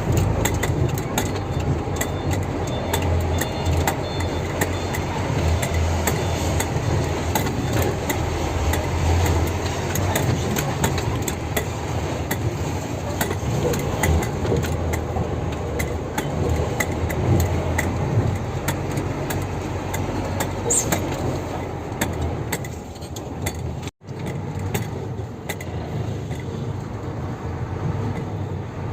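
Loaded diesel dump truck running at low engine speed, with frequent rattling and clinking from the truck; the sound cuts out for an instant near the end.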